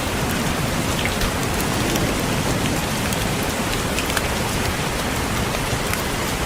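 Steady rain with many separate raindrops tapping on a window pane.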